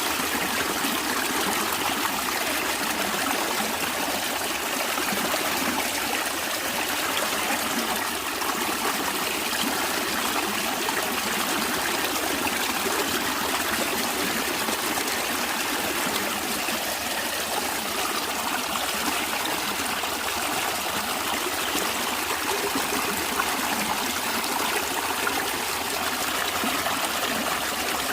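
Stream water running and trickling, a steady, even rush with no break.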